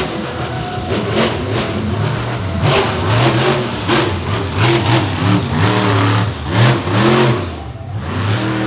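Monster truck engine revving hard again and again, its pitch climbing and dropping in quick surges.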